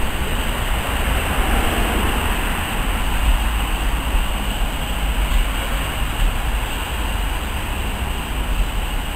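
Railway passenger coaches rolling past, a steady rumble of wheels on the rails.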